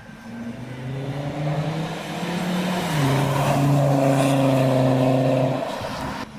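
A car engine growing louder as the car drives past, its note dropping about three seconds in. It then fades and cuts off suddenly near the end.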